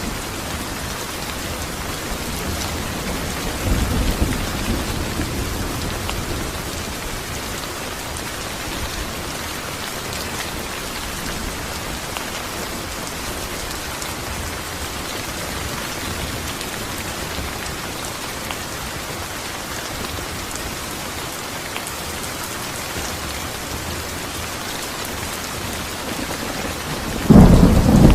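Steady rain falling, with a low roll of thunder about four seconds in and a loud, close thunderclap near the end.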